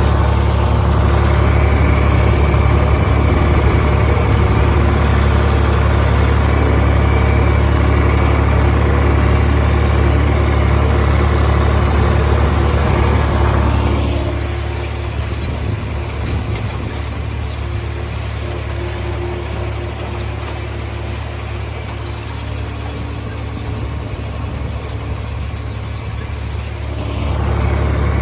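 Farm tractor engine running steadily with a deep hum. Its sound drops noticeably about halfway through and rises again near the end.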